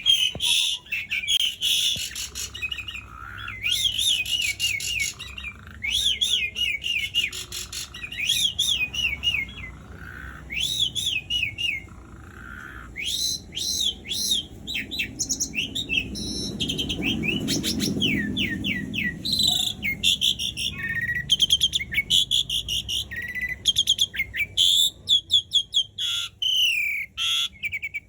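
Asian pied starling (jalak suren) singing a long, varied song: phrases of quick zigzagging whistled notes, broken up by dry clicking rattles.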